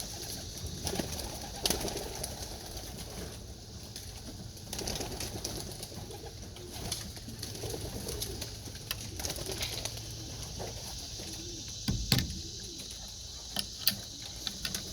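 Young racing pigeons cooing, with scattered sharp clicks and knocks throughout, the loudest about twelve seconds in.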